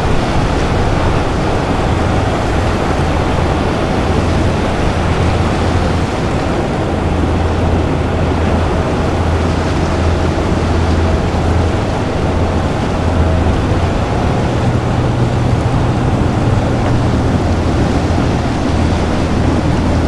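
Boat engines running with a steady low drone, under a constant rush of wind and water. The hum shifts slightly in pitch about two-thirds of the way through.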